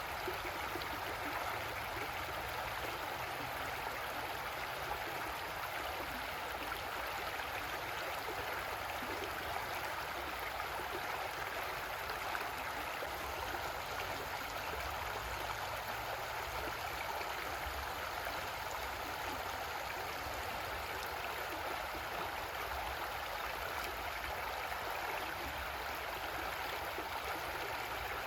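Creek water rushing and gurgling over rocks, a steady even flow.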